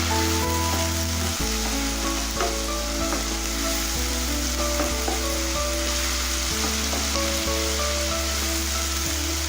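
Chopped onions sizzling steadily in hot oil with ginger-garlic paste, over background music with held low notes.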